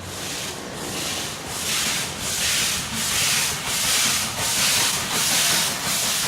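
Steam locomotive chuffing in a steady rhythm, about three exhaust beats every two seconds, starting abruptly.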